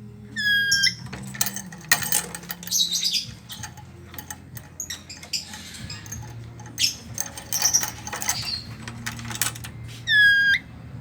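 Chattering lory (Lorius garrulus) calling: two loud, shrill whistled shrieks, one just after the start and one near the end, with scratchy chatter and clicks in between over a low steady hum.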